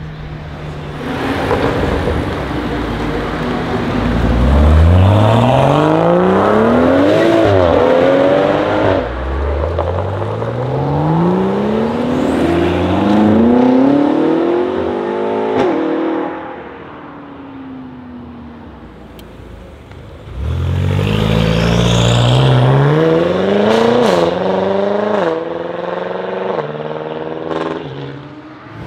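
Modified BMW M cars accelerating hard, one of them a BMW M5 F90's twin-turbo V8: the engine pitch climbs steeply through each gear and drops sharply at each upshift, in several pulls. A few loud exhaust pops and crackles come near the end.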